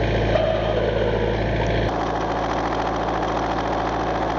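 Engine of a small bucket loader running steadily at idle. Its low note shifts about two seconds in.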